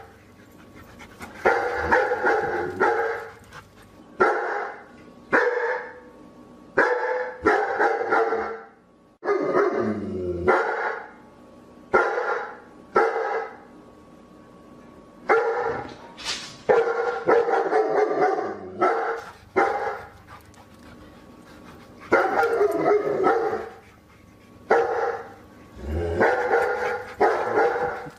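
A dog barking repeatedly, in clusters of short barks separated by pauses of a second or two.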